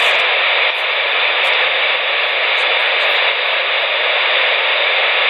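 Two-way radio receiver giving a steady, loud static hiss between transmissions, with a narrow, band-limited sound and no voice on the channel.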